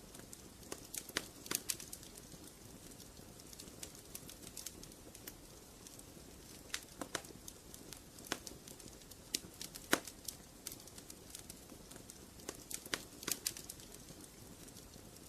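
Wood fire crackling in a fireplace: a low steady hiss with irregular sharp pops and snaps, a louder pop about ten seconds in.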